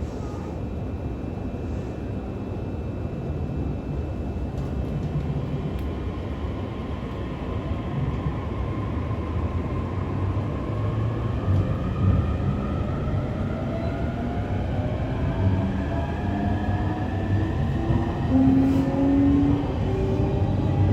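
E531-series electric train's Hitachi IGBT inverter and traction motors whining as the train accelerates, over the rumble of wheels on rails, heard inside the passenger car. The whine is several tones together, climbing steadily in pitch from about a third of the way in.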